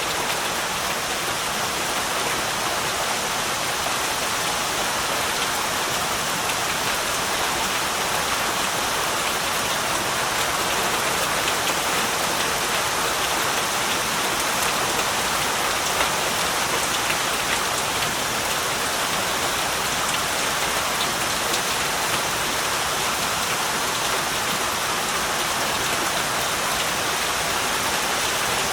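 Heavy rain falling steadily, a dense even hiss of drops with faint patter, without a break or change.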